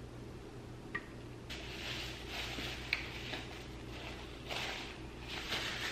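Close-up chewing of a bite of chicken sandwich, with the paper wrapper rustling in stretches and a few small mouth clicks, over the low steady hum of an air conditioner, which is so loud.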